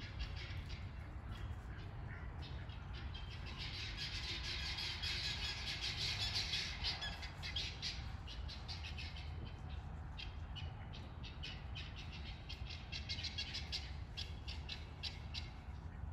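Birds calling in the trees: a busy run of short chirps and squawks, thickest a few seconds in and again toward the end, over a steady low rumble.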